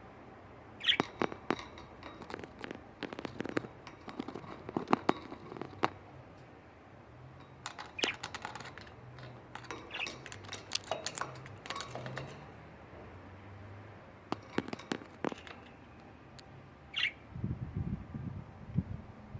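Budgies giving a few short chirps amid scattered sharp clicks and taps.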